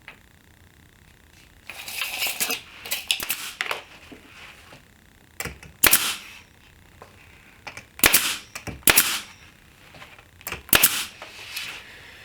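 Pin nailer firing pins into a wood strip, several sharp pops a second or two apart, with handling noise between shots.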